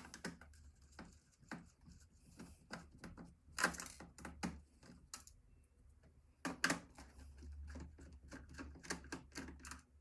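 Irregular clicks and taps of a screwdriver and computer parts being handled during disassembly of an old computer, with louder knocks a little under four seconds in and again about six and a half seconds in.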